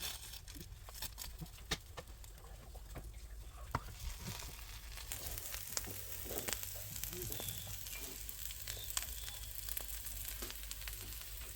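Faint sizzling of food frying in a pan, a steady hiss with scattered crackles that grows a little louder about halfway through.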